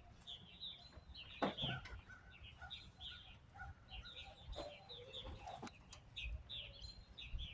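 Small birds chirping over and over in short, quick calls, with a few knocks.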